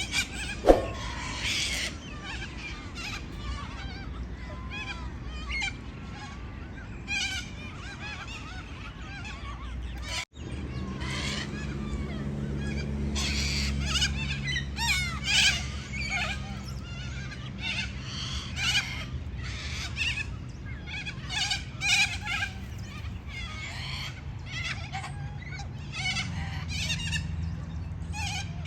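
Parrots chattering, with many short, harsh, high-pitched squawks and chirps coming in quick bursts. The sound breaks off briefly about ten seconds in, and after that a low steady hum runs underneath.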